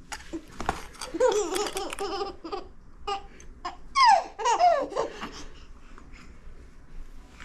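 A baby laughing and squealing in bursts, the loudest a falling squeal about four seconds in, with a few short clicks in between.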